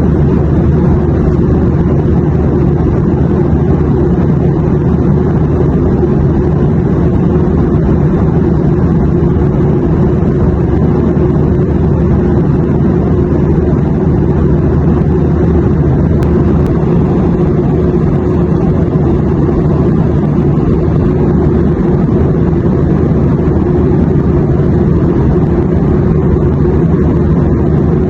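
Steady, unchanging drone of a jet airliner's engines and airflow as heard inside the cabin in cruise, a loud low rumble with little high end.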